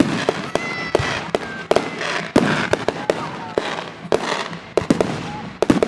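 Fireworks display going off: an irregular, rapid series of sharp bangs and pops over a continuous crackling haze.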